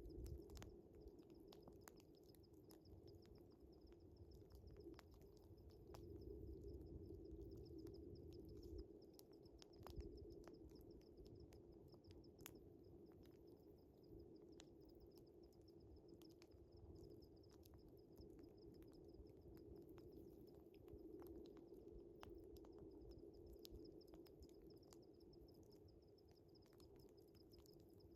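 Faint wood fire crackling with scattered sharp pops, over a steady chorus of crickets chirping.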